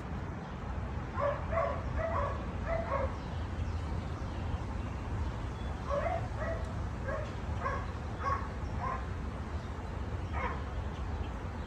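A dog whining in short, high-pitched yips, in quick runs of about four with pauses between, as it is held on a stay and waits eagerly to be released to search.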